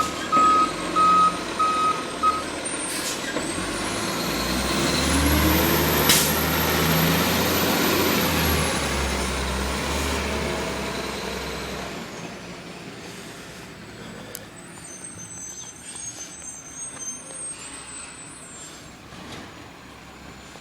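Garbage truck backing up with its reversing alarm beeping a few times, then its engine revving up and running loudly, with a short air-brake hiss in the middle, before the sound fades as the truck pulls away.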